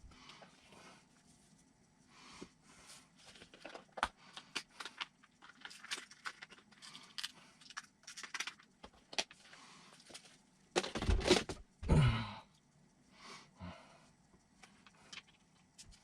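Small RC kit parts being handled on a workbench: scattered light clicks and rustling, with two louder, longer handling noises about eleven and twelve seconds in.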